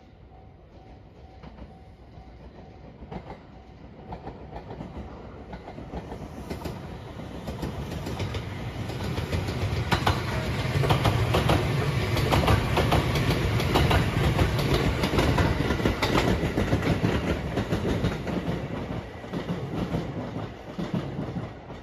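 227 series electric train passing, its wheels clicking over rail joints. It builds up, is loudest for several seconds in the middle, then fades and drops away just before the end.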